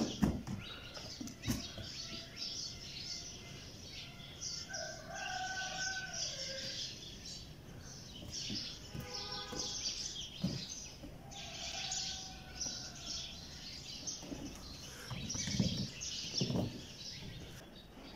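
Small birds chirping on and off, with a few longer pitched calls among them and occasional dull low thumps.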